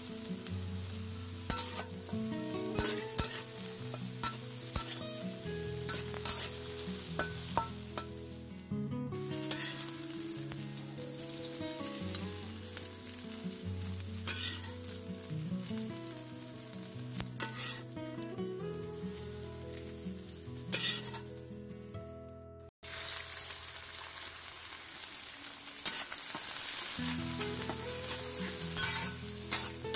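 Sliced bitter gourd sizzling in hot oil in a metal karahi, with a steel spatula scraping and clicking against the pan as it is stirred, over background music. After a sudden cut about three-quarters of the way through, sliced onions sizzle on their own for a few seconds before the music comes back.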